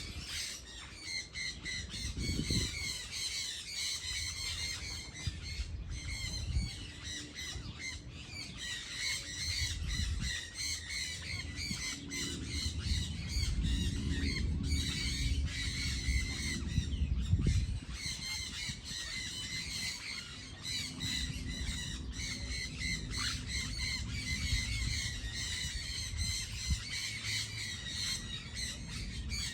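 Many birds calling at once: a dense, continuous chorus of short, overlapping calls, with a low rumble underneath that swells in the middle.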